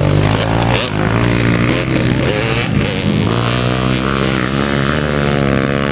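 Motocross motorcycle engines running and revving, the pitch rising and falling, then holding a slowly climbing note for the second half.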